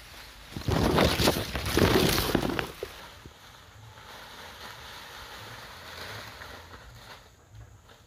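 Dry leaves rustling and crackling loudly for about two seconds, starting about half a second in, then quieter rustling as the leaves are handled.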